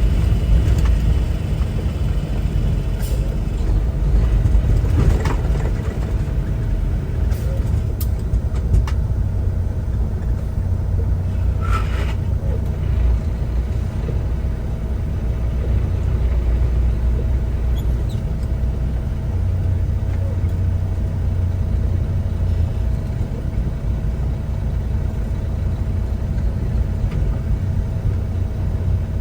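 Inside a semi truck's cab while driving: steady low engine and road rumble, with a few scattered faint clicks.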